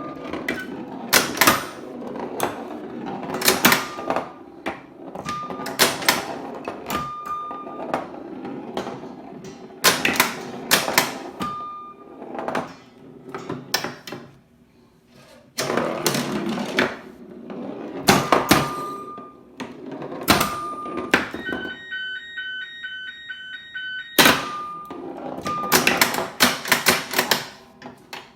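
A 1977 Sentinel Star Explorer home pinball machine in play: the ball rolls around the playfield amid frequent sharp clacks of the pop bumpers and flipper solenoids, with short single beeps. The pop bumpers fire fairly well, but their mechanisms still need exercising. About three quarters of the way through, the clacks stop for a couple of seconds while a short tune of several steady tones plays.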